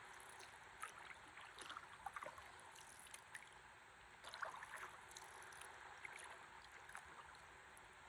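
Faint water lapping and small splashes against a stand-up paddleboard drifting on a river, with a few clusters of little splashes about a second in, around two seconds and around four and a half seconds.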